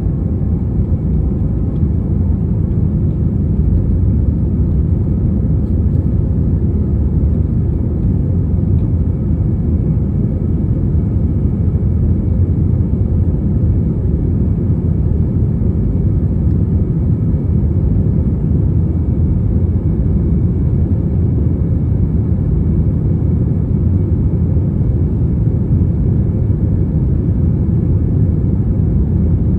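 Jet airliner cabin noise: a steady low rumble of engines and rushing air, unchanging, with a faint high hum above it.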